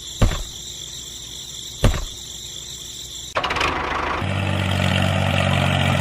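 Two sharp thumps, then a small engine or motor starts about three seconds in and runs steadily, louder than before. A steady high-pitched whine runs under the first half.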